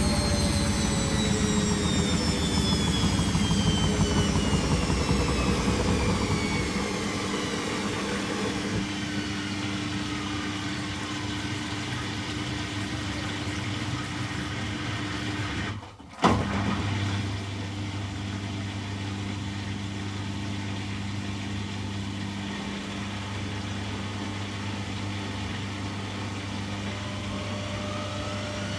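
Beko WTG620M1 washing machine's motor and drum slowing from a spin, its whine falling steadily in pitch. About 16 s in the sound drops out briefly with a sharp click, then settles to a steady low hum, and a whine starts rising again near the end.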